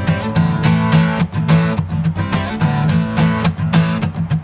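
Acoustic guitar strummed in a brisk, steady rhythm, about four strokes a second, in a short instrumental gap of an upbeat song.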